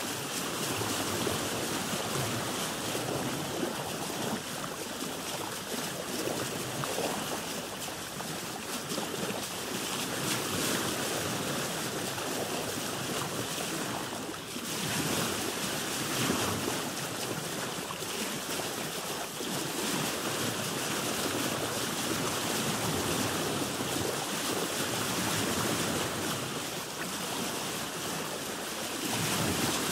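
Sea waves washing around a boat: a steady rushing noise that swells and eases every few seconds, with a brief lull about halfway through.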